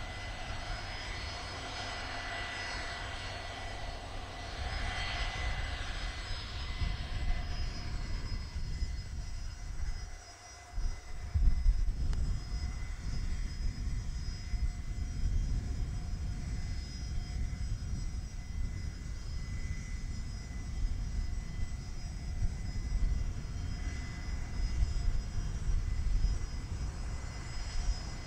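Landing aircraft's engines: a steady engine whine at first that fades, then, about eleven seconds in, a deep, uneven rumble that carries on through the rest.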